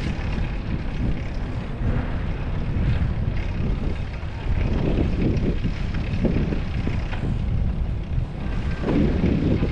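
Wind rumbling and buffeting on a GoPro microphone while riding a bicycle, a steady low roar that swells a little about halfway through and again near the end.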